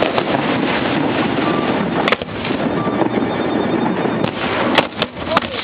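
Fireworks at close range: a dense, continuous crackle with several sharp bangs, the loudest near the end.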